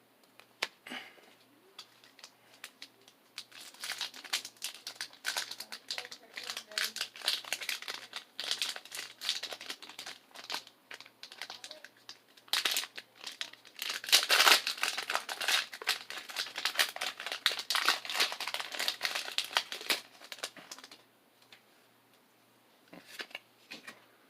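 Foil Pokémon booster pack wrapper being torn open and crinkled, with the cards shuffled between the fingers: irregular crackling that builds to its loudest around the middle and dies away a few seconds before the end.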